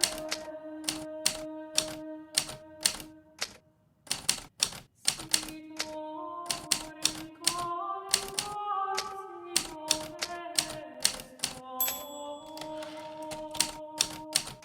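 Hermes Baby portable typewriter keys striking in a steady run of about two to three keystrokes a second, pausing briefly about four seconds in. Soft background music with sustained chords plays underneath.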